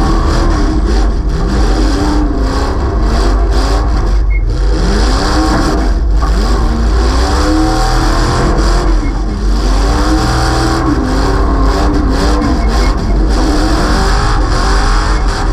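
A demolition-derby car's 355 V8 running through open headers that stick straight up out of the hood, heard loud and close to the pipes. The engine revs up and falls back over and over, about once a second.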